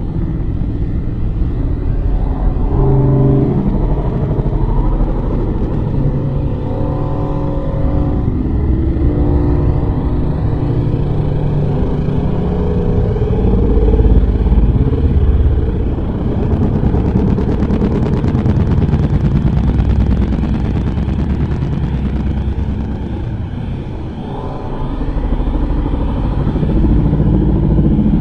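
Loud, continuous low rumbling with long, wavering horn-like tones drifting over it: one of the unexplained 'strange sounds' heard in the sky.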